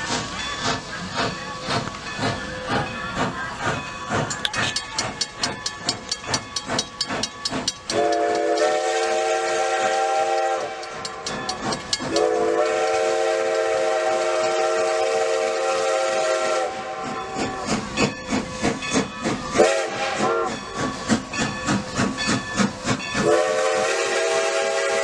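Steam locomotive working hard with rapid, even exhaust chuffs, then sounding its chime whistle in two long blasts, a short one and a final long one: the long-long-short-long signal for a grade crossing.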